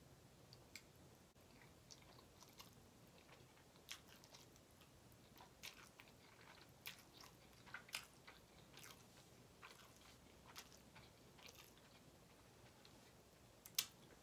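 Close-miked chewing of a mouthful of ramen noodles: soft, wet mouth clicks and lip smacks scattered through, with one sharper click near the end.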